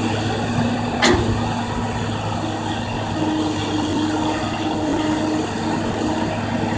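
Kobelco excavator's diesel engine running steadily under work, with one sharp metallic knock about a second in and a steady higher whine coming in at about three seconds.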